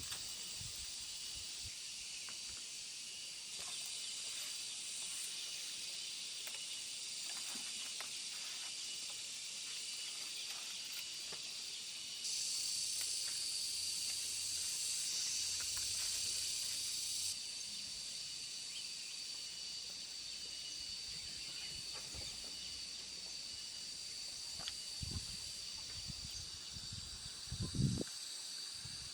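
Steady high-pitched insect chorus, with a louder hissing stretch for about five seconds in the middle and a few soft knocks near the end.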